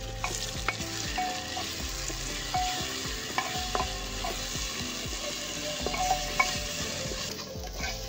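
Ground masala paste sizzling in hot mustard oil with fried onions inside an open pressure cooker, stirred with a wooden spatula that scrapes and knocks against the pot now and then.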